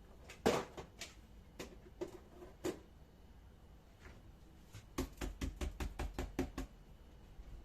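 Sharp knocks and clicks, a few scattered ones and then a quick run of about ten close together just past the middle.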